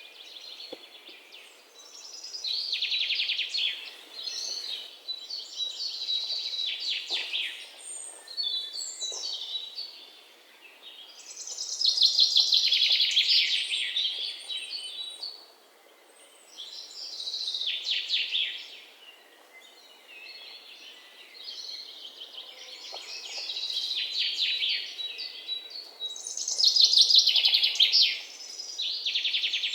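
Songbird singing: rapid trilled phrases of high notes, each lasting a couple of seconds, repeated every few seconds over a faint steady background hiss.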